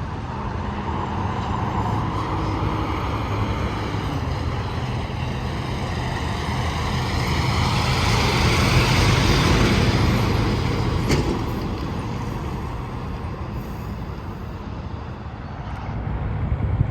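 Highway traffic: a heavy truck passing at speed, its engine rumble and tyre noise swelling to a peak about nine seconds in and then fading, with another vehicle approaching near the end.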